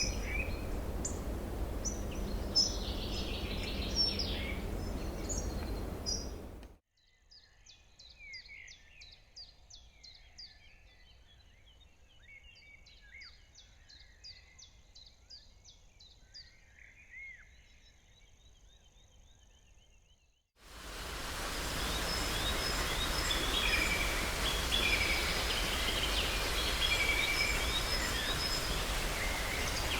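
Wild birds singing and calling over a steady outdoor hiss. About seven seconds in, the hiss cuts out suddenly, leaving quieter, clearer birdsong with rapid trills and repeated high notes. About twenty seconds in, the louder hiss and birdsong return just as suddenly.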